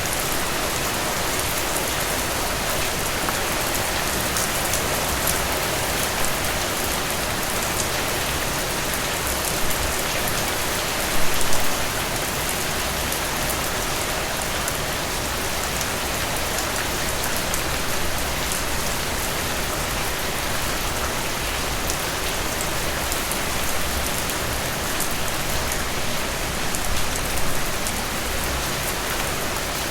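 Steady rain falling, with close raindrops pattering on surfaces. It swells briefly in a short cluster of louder drops about a third of the way in, and again near the end.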